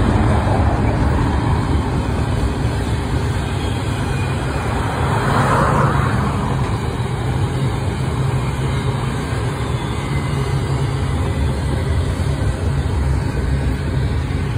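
Double-stack container train rolling past close by: a steady rumble of wheels on rail, with a brief swell in the noise about five seconds in.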